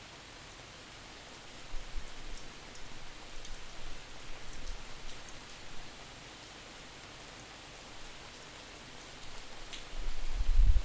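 Steady rain falling at a back door, with wind buffeting the microphone in low, distorted rumbling gusts from about two to five seconds in and again near the end.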